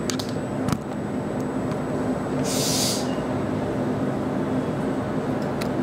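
Steady hum inside a standing X10 electric commuter train, with a couple of faint clicks near the start and a short burst of hiss about two and a half seconds in.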